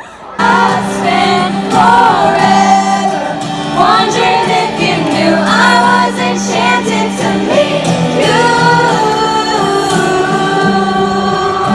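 Live pop concert music in a stadium: a singer over a full band. It starts abruptly about half a second in.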